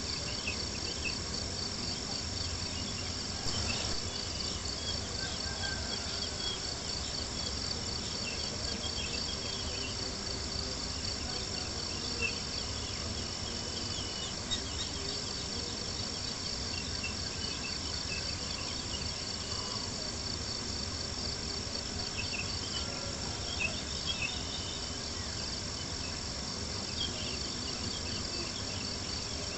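Steady chorus of crickets chirping in a fast, even pulse, with a few short pops of a crackling campfire now and then.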